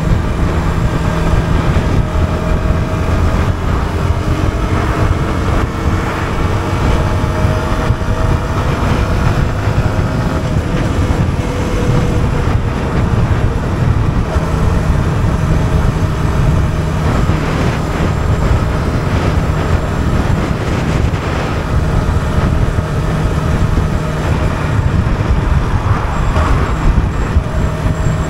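Yamaha R125's single-cylinder four-stroke engine running steadily on the road with traffic noise; its note slides gently up and down in pitch in places.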